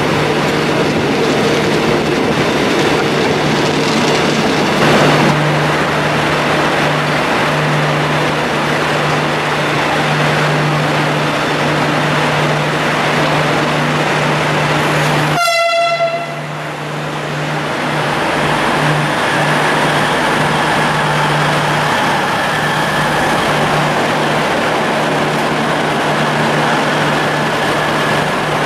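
Steam-hauled passenger train running on the rails: a steady rumble and rush with a constant low hum, and a brief high-pitched tone about halfway through, after which the sound dips for a moment.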